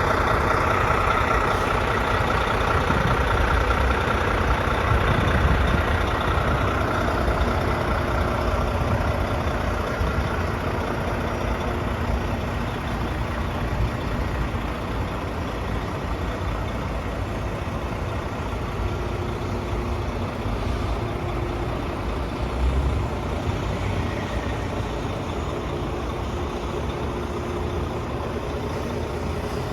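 Volvo D13 diesel engine of a heavy roll-off truck running, a steady low rumble.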